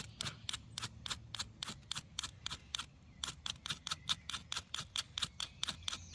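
A steel striker scraped rapidly and repeatedly down a spark-throwing fire-starter rod, about four quick rasping strokes a second, with a brief pause about three seconds in.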